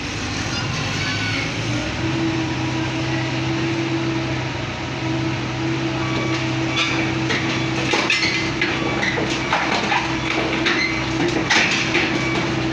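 Diesel engine of a heavy machine running steadily. From about six seconds in, it is joined by repeated metallic clanks and knocks.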